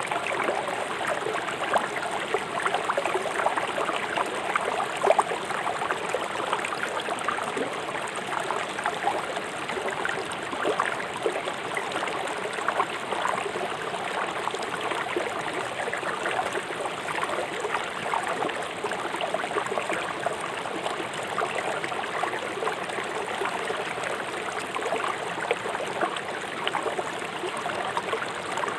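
A fast-flowing river rushing and splashing over stones in its bed, a steady rushing noise full of small splashes and gurgles.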